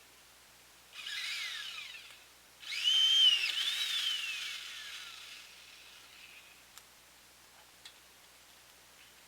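Chainsaw revved in two bursts: a short one about a second in, then a longer, louder one whose high whine climbs, then falls away as it slows.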